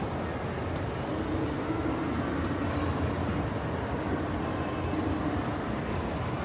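Steady low rumble of vehicles, with a faint humming tone that comes in about a second in and a few light clicks.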